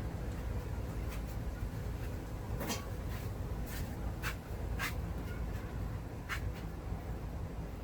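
Scrap wire being handled and stripped by hand: five short sharp clicks and some scratchy handling, over a steady low hum.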